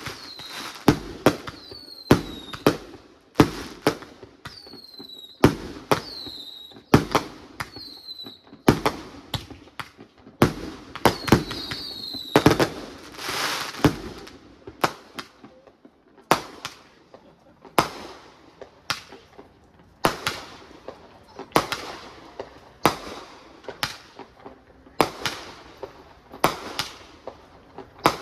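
Aerial fireworks bursting in a steady run of sharp bangs, about one a second, with several short falling whistles among the bangs in the first half.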